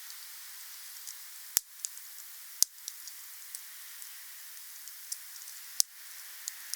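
Burning wood crackling in a bonfire: a steady hiss with many small ticks and three loud pops, at about one and a half, two and a half and nearly six seconds in.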